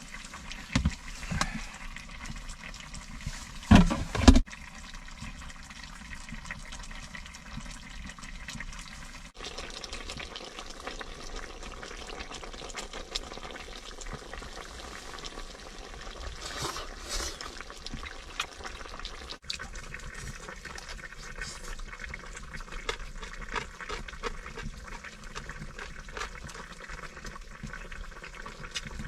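Steady hiss of food cooking on a heating stove. A few knocks come near the start, the loudest about four seconds in.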